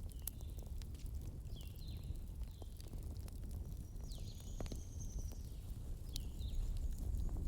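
Campfire crackling: scattered sharp pops and snaps over a low, steady rumble. Short high chirping calls come every second or so.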